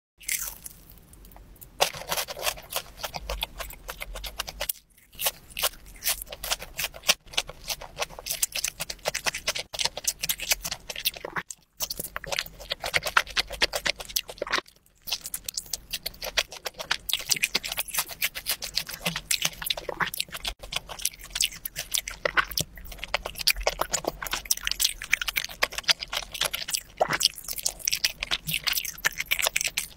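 Eating sounds: biting and chewing breaded fried cheese sticks and a sauce-coated fried pork cutlet, a dense run of crisp crackles and wet mouth clicks that breaks off briefly three times.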